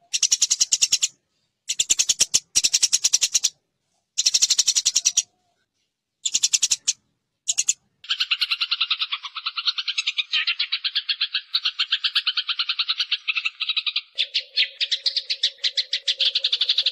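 Eurasian tree sparrows fighting, giving rapid harsh chattering calls. The calls come in short spurts with sudden gaps at first, then run on without a break from about halfway, and a lower steady tone joins near the end.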